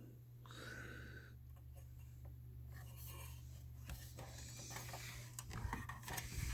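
Faint handling noise, light scraping and a few small clicks, as the air conditioner's control box and its cable connector are handled, over a steady low hum.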